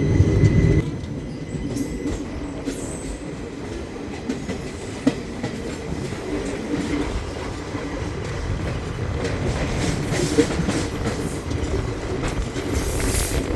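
Indian train running along the track: a steady rumble and clatter of wheels on rail, louder for the first second, with a sharp knock about five seconds in and another about ten seconds in.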